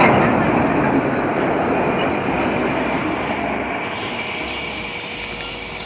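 Freight train of autorack cars rolling past close by, a steady rush of steel wheels on the rails that fades gradually as the cars go by.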